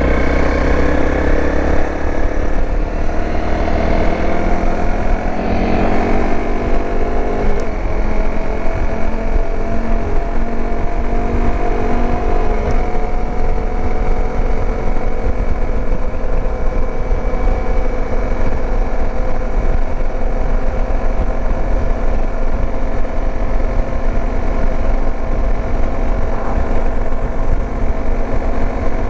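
Dirt bike engine under way, its note rising as it pulls for the first several seconds, changing sharply twice, about seven and a half and twelve and a half seconds in, then holding steady at cruising speed. Constant low wind rumble on the microphone.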